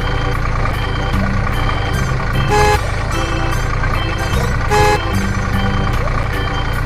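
Steady vehicle engine rumble with two short horn toots, about two and a half and four and a half seconds in, over background music with a steady beat.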